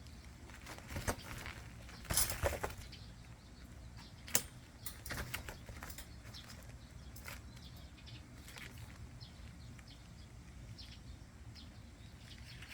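Kittens scrambling on an umbrella: irregular rustles of the fabric and light knocks, loudest in a cluster about two seconds in and a sharp tick a couple of seconds later, then sparser scratchy rustles.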